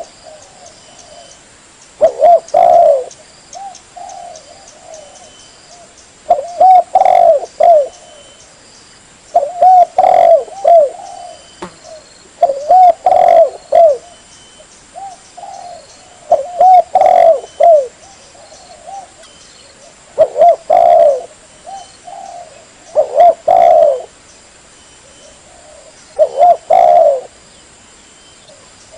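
Spotted dove (tekukur) cooing its song: a short run of low, rounded coos repeated about every three to four seconds, roughly eight phrases in all. It is the kind of call played to lure tekukur in.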